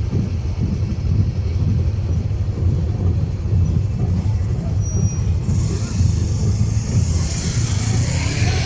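Motorcycle engine running with a steady low rumble, heavily buffeted by wind on the microphone; about halfway through a high hiss comes in and stays.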